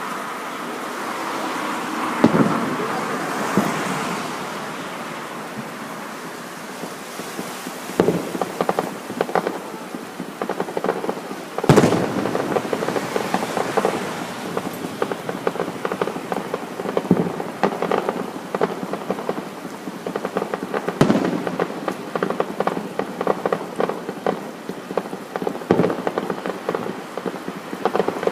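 Aerial fireworks going off: sharp bursting booms at uneven gaps of a few seconds, the loudest about twelve seconds in, with dense crackling from crackle shells in between.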